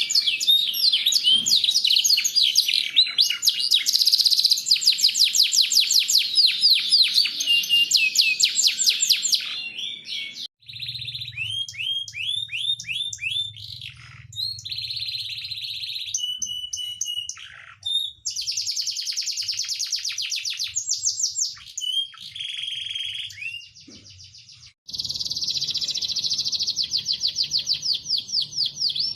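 Domestic canary singing a long, loud song of fast trills and rolling phrases, high-pitched and nearly continuous, breaking off suddenly a few times before starting again.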